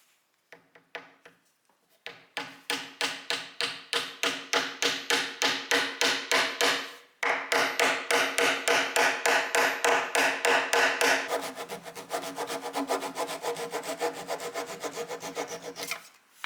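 A hand tool works solid wood in a fast, even rhythm of strokes, each with a ringing tone. The strokes come about three to four a second, pause briefly about seven seconds in, then resume faster, at about five a second.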